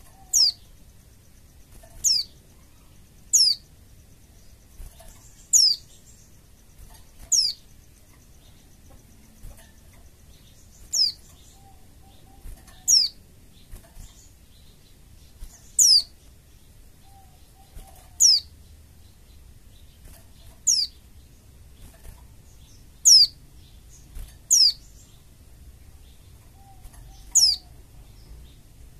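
White-eye (pleci) calling: short, high notes that sweep down in pitch, repeated about every two seconds, some fifteen times.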